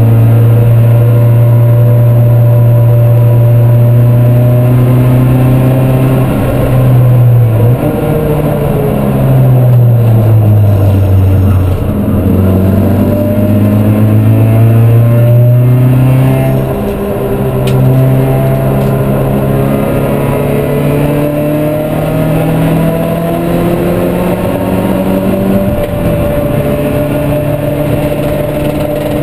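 Supercharged 1.6-litre Toyota 4A-GZE twin-cam four-cylinder of a Corolla race car, heard from inside the cabin at racing speed. The engine note holds high at first, falls away for a few seconds, then climbs again through the gears, with sudden drops in pitch at two upshifts, the last near the end.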